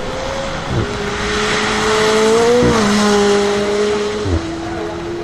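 Koenigsegg Jesko Attack Plus's twin-turbo V8 accelerating hard, its note stepping down abruptly with three quick upshifts about two seconds apart. It grows louder toward the middle and then eases off as it goes by.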